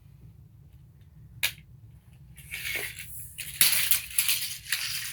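Cobalt 35-foot steel tape measure being handled: a single click about a second and a half in, then the blade scraping and rattling with sharp clicks through the second half.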